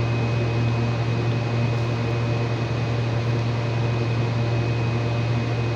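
Steady mechanical hum of a running fan motor: a strong low drone with a thin, faint high whine above it, unchanging throughout.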